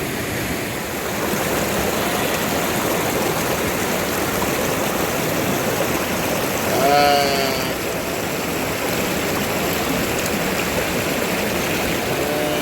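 Steady rushing of water, with one short call, from a voice or animal, about seven seconds in.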